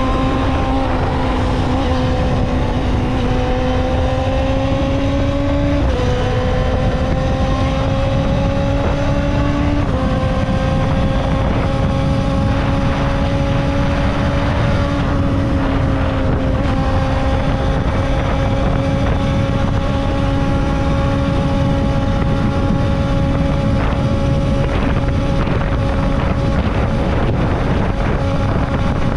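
Kawasaki ZXR250's inline-four engine running at high revs under way, a steady high-pitched hum that shifts slightly in pitch a couple of times, with wind rumble on the microphone.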